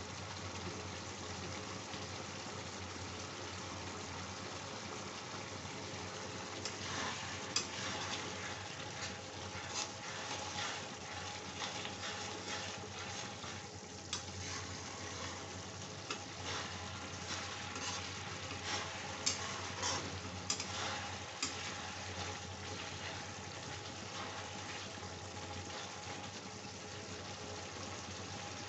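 Okra and onions sizzling in a kadai, with a metal spatula scraping and stirring the pan in irregular strokes through the middle stretch.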